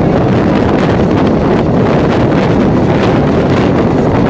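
Steady running noise of an EMU suburban electric train at speed, heard from on board, with wind buffeting the microphone.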